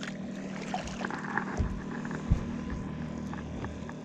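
A steady low hum with a few dull knocks, the loudest about two seconds in.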